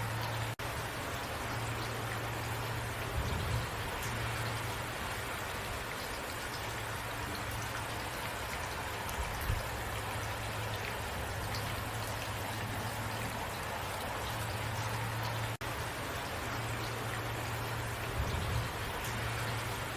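Steady rain falling, an even hiss of many drops, over a low steady hum.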